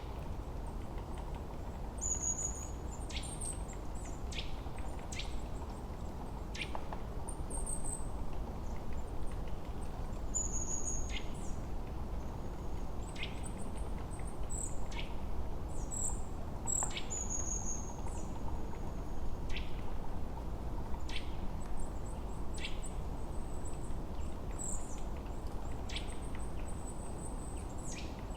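Forest birds singing and calling: scattered short, high whistled notes and sharp chips at irregular intervals, over a steady low background rush.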